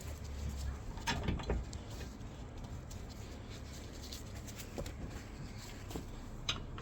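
A few short knocks and clicks from hands-on work on the car: a quick cluster about a second in and one more near the end, over low background noise.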